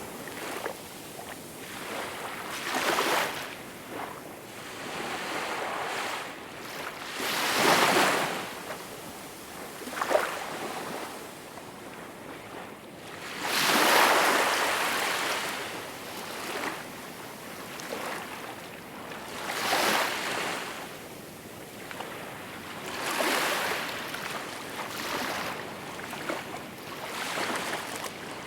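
Small waves breaking and washing on the shore, a steady hiss of water that swells into a louder wash every few seconds, two of them much louder than the rest.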